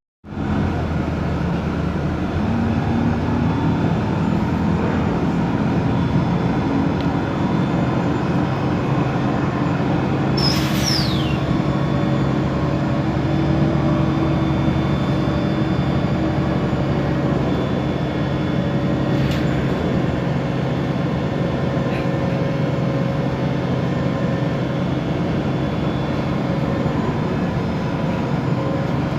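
Otokar Kent LF city bus under way: its Ford Ecotorq diesel engine and Voith DIWA automatic gearbox running steadily, their tones stepping up in pitch early on and drifting as the bus moves. About ten seconds in, a brief high squeal falls in pitch.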